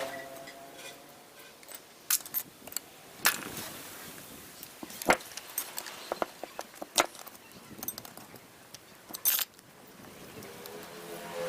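Metal clinking as parts or tools are handled on a workbench: a series of sharp, separate clicks and knocks spread unevenly through the stretch, between pauses of low background.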